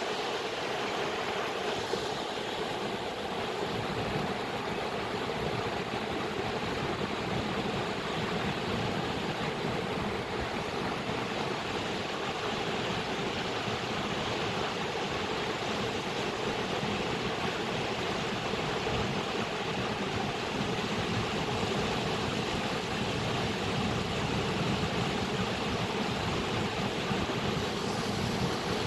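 Flowing water making a steady, continuous rush, even throughout with no breaks.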